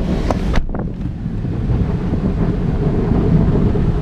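Automatic car wash working over a car, heard from inside the cabin: a steady low rushing of water and wash equipment against the body, with a few brief sharp knocks or splashes in the first second.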